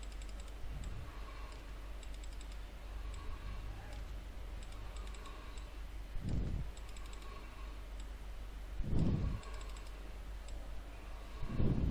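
Faint computer keyboard typing and mouse clicks over a steady low hum, with three soft low thuds in the second half.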